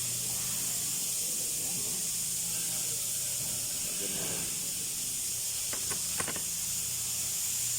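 Steady high hiss over a low steady hum, with a few light clicks about six seconds in.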